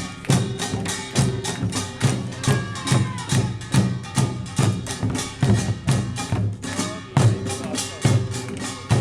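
Pungmul farmers'-band percussion playing: kkwaenggwari small gongs clanging with janggu hourglass drums and buk barrel drums in a dense, driving rhythm.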